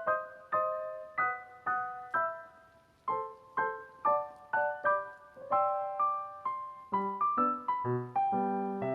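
Background piano music: a gentle melody of single struck notes, each fading away, with lower bass notes joining about seven seconds in.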